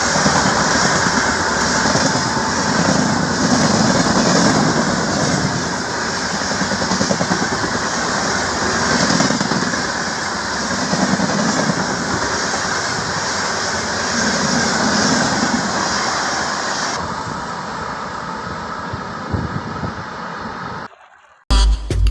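Train running on rails at speed: a steady rushing rumble with a rhythmic low swell about every two seconds. It cuts off about twenty-one seconds in, and music starts near the end.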